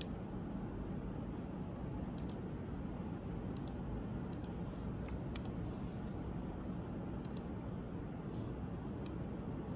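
Steady low background noise with a few faint, sharp clicks, several of them in quick pairs.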